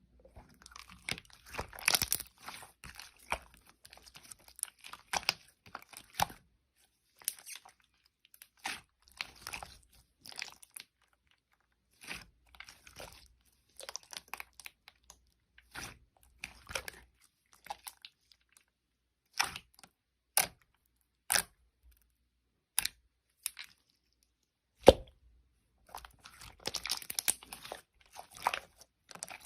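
Hands playing with a mixed slime: irregular squishing and popping noises in short bursts, with a few separate sharp clicks later on and one loud snap about 25 seconds in.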